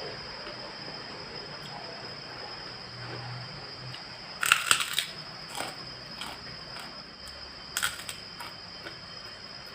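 Close-up eating sounds: a loud crunchy bite about four and a half seconds in and another near eight seconds, with quieter chewing clicks between, over a steady high-pitched whine.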